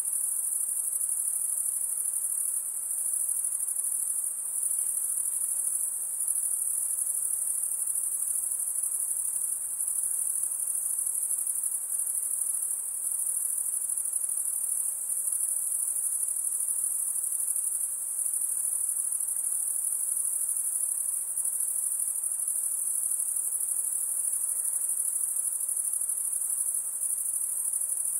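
A dense, continuous high-pitched insect chorus, like crickets or katydids trilling together, with no pauses.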